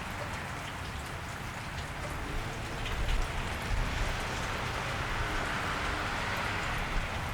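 Steady rain falling on a wet street, with individual drops ticking against hard surfaces.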